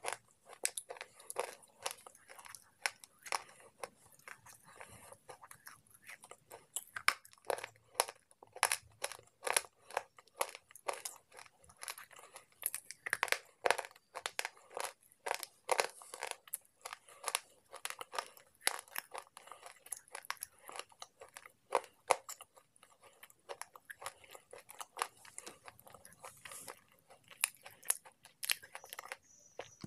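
Slate pencil pieces being chewed: a dense run of sharp, irregular crunches and crackles, several a second.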